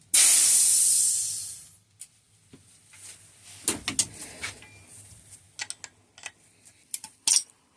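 Pressurised air hissing out of the RockShox SID's Solo Air spring as the fork is depressurised. The hiss starts loud and fades away over about two seconds. After it come a few light clicks and knocks of small parts being handled.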